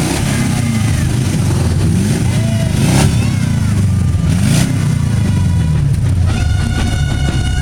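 Car and motorcycle engines running and revving, rising and falling in pitch, with two sharp cracks about three and four and a half seconds in.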